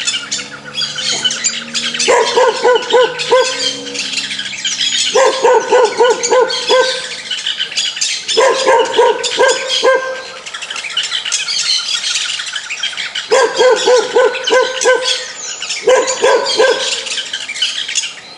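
A dog barking in quick bursts of several barks each, five bursts with short pauses between. Birds chirp continuously in the background.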